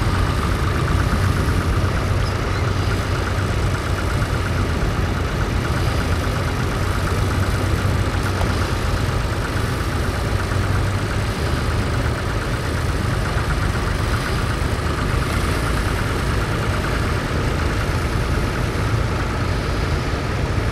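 Vintage tractor engine running steadily, with a fast, even firing beat.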